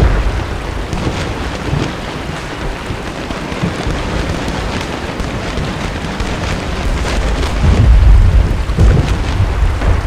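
Steady rain falling, with a deep rumbling boom dying away over the first couple of seconds and another swelling up near the end. Faint sharp cracks are scattered through.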